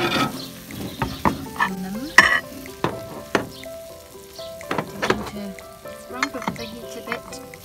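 Chicken thighs in a curry marinade sizzling in a hot cast-iron sizzler pan, with fat and juices spitting in sharp, irregular pops and crackles.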